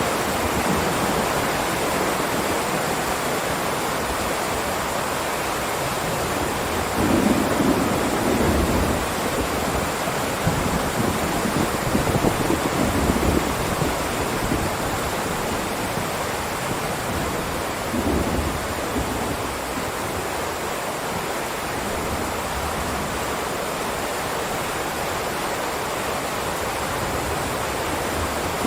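Heavy rain downpour making a steady hiss, with low rumbles swelling up a few times, about a quarter of the way in, near the middle, and again a little later.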